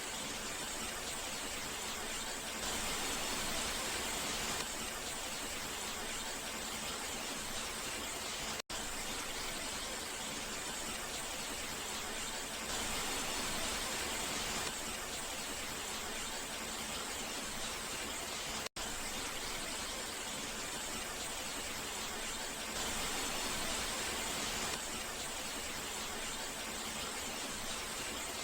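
Steady rain, an even hiss with no single drops standing out, cutting out for an instant twice, about nine and nineteen seconds in.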